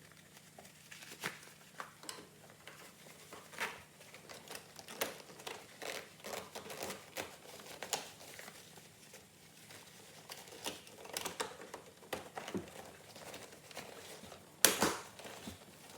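Plastic dash trim and wiring being handled and fitted back into place in a car's dash: scattered light clicks, taps and crinkling rustles, with one louder knock near the end.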